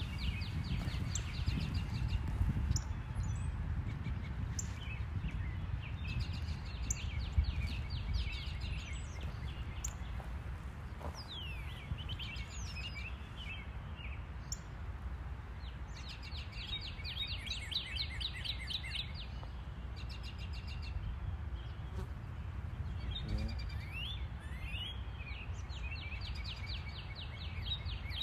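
Songbirds singing, repeated rapid chirping trills that each last two or three seconds with short gaps between, over a steady low rumble.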